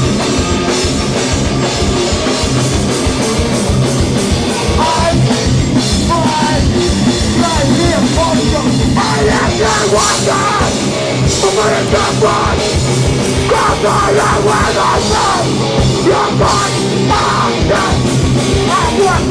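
Hardcore punk band playing loud and fast: distorted guitars and bass over a rapidly struck drum kit.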